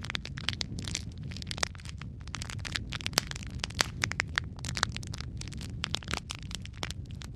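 Wood fire crackling, with frequent sharp pops and snaps at irregular intervals over a low, steady rumble of burning.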